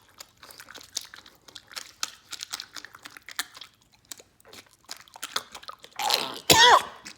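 A person chewing close to the microphone, with many small wet smacks and crunches. Near the end comes a short, louder vocal sound that wavers in pitch.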